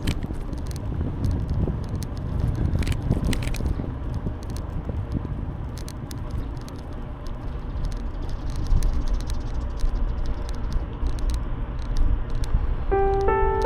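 Riding noise from a bicycle: a steady low rumble of wind on the microphone and tyres on the path, with scattered light clicks and rattles. Music comes back in near the end.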